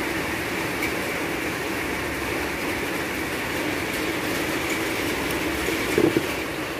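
Heavy rain falling steadily on a pond's surface, a constant hiss of drops on water. About six seconds in, a brief burst of splashing at the water's edge stands out louder.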